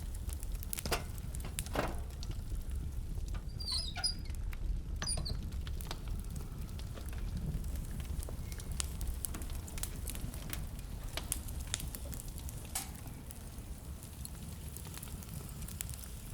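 Wood fire in a fireplace crackling, with irregular pops and snaps over a steady low rumble. A few brief high squeaks come about four to five seconds in.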